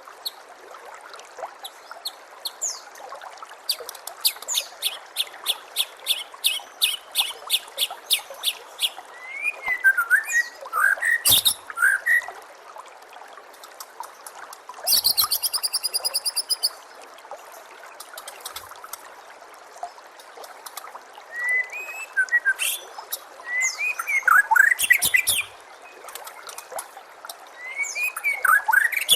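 White-rumped shama (murai batu) singing varied phrases: a long run of quick repeated notes, sweeping whistles, and a fast rattling trill about halfway through, over the steady trickle of running water.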